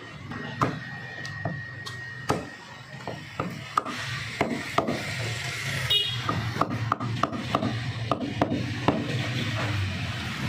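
Repeated sharp knocks of a butcher's cleaver chopping chicken on a wooden block, irregular at first and then around two a second, over a steady low background hum.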